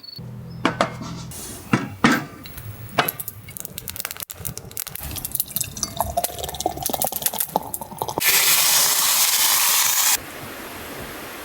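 Several sharp clinks and knocks of glass, then a drink being poured into a glass, its pitch rising as it fills. About eight seconds in, a loud steady hiss starts abruptly and cuts off two seconds later.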